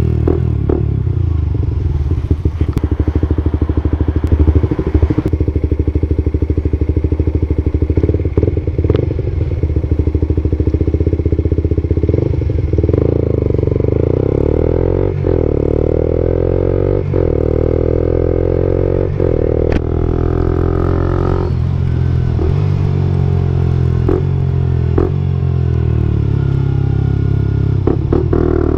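Suzuki GSX-R125's 125 cc single-cylinder engine running through an aftermarket Akrapovic-style slip-on exhaust, a steady low exhaust note, with short sharp clicks every second or two in the second half.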